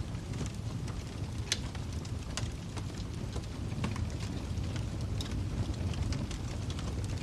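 Fireplace wood fire crackling: irregular sharp pops and snaps over a steady low rumble, with one louder pop about a second and a half in.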